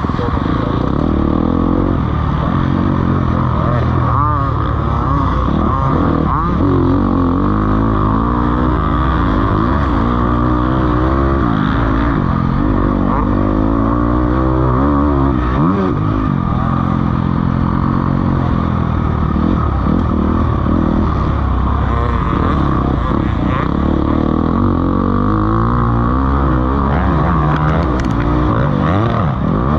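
Several motocross bikes racing, their engines revving up and down and overlapping as they work around the track.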